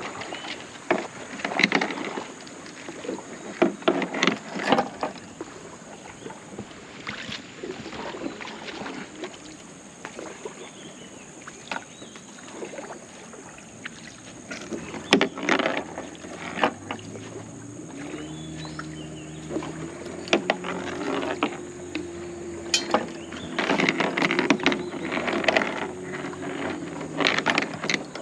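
Water splashing in irregular strokes with knocks, as from a small boat on a river being paddled or worked from. A low steady hum comes in a little past halfway.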